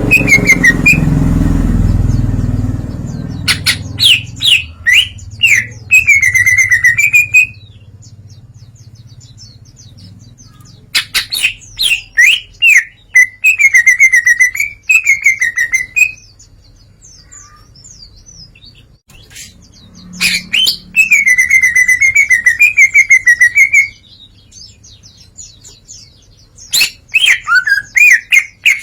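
Green leafbird (cucak ijo) singing loudly in four spells of song: rapid sharp repeated notes running into warbled phrases, with pauses of a few seconds between spells. A low rumble sounds under the song for the first few seconds.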